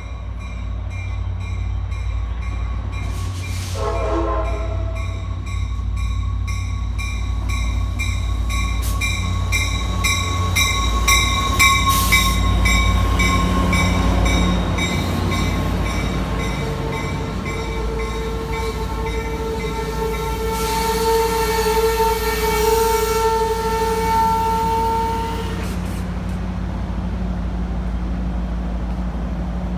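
Passenger train led by an F59PHI diesel locomotive arriving at a station. The diesel rumbles throughout, with a short horn blast about four seconds in and a bell ringing about twice a second through the first half. The brakes squeal steadily from about halfway through as the cars roll slowly past, cutting off a few seconds before the end.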